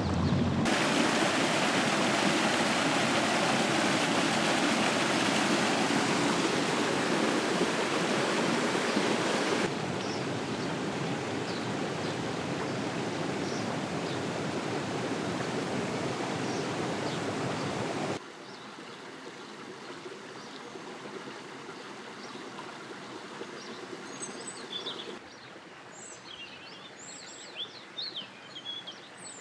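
Steady rushing, hissing noise of the Furnas volcanic hot springs, boiling water and steam, changing in loudness abruptly three times. Small birds chirp over it near the end.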